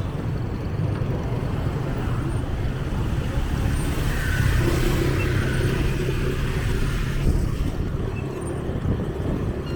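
Street traffic: motor vehicles running and passing close by, a steady low rumble over a wash of road noise.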